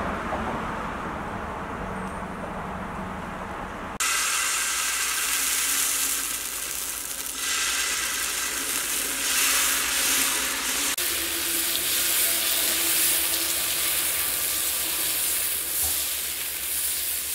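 Dosa batter sizzling in sesame oil on a hot pan: a loud, dense, hissing crackle that starts abruptly about four seconds in. Before it comes a quieter stretch with a low hum.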